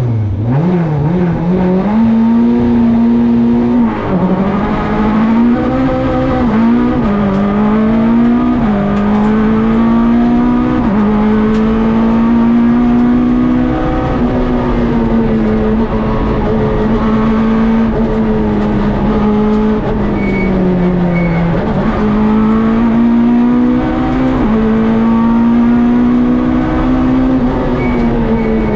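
Peugeot 106 rally car engine heard from inside the cockpit, pulling away from the stage start and accelerating hard through the gears. The revs climb and drop back at each upshift, quick shifts in the first seconds, then it runs at high revs with brief lifts and downshifts for corners.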